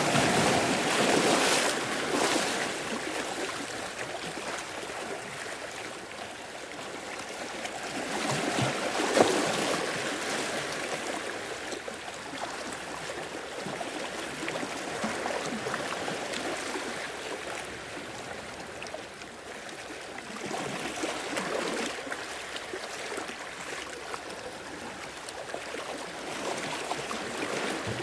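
Small sea waves washing onto the shore in slow surges, one rising about a third of the way through and another at the very start, with a steady rush of water between them.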